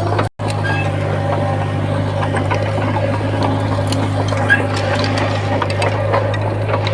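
Komatsu bulldozer's diesel engine running steadily with a low hum, over a busy clatter of clicks and rattles from the working machine. The sound cuts out for an instant just after the start, then carries on unchanged.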